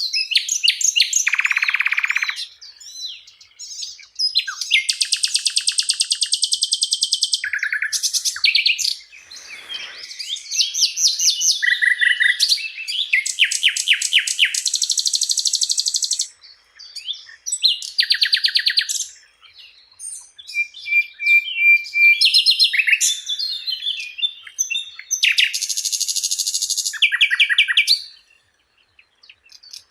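Sikatan londo, a flycatcher, singing a long run of varied phrases: fast rattling trills, buzzy stretches and short high whistles, each phrase a second or two long with short pauses between.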